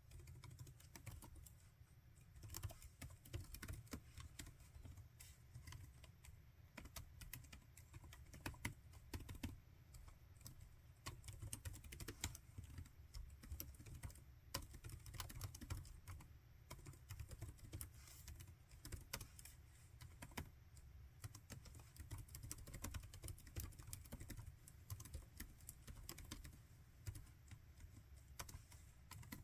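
Typing on a laptop keyboard: a continuous, irregular stream of quiet key clicks over a low steady hum.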